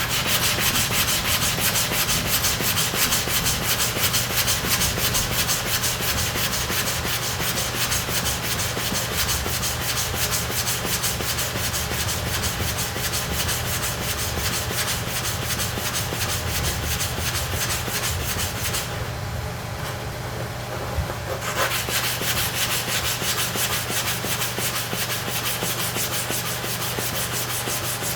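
A steel clipper blade, held in a blade holder, is rubbed back and forth over a sharpening stone charged with oil and sharpening powder, giving a continuous gritty scraping as the edge is ground. The scraping lets up briefly about two-thirds of the way through, then resumes.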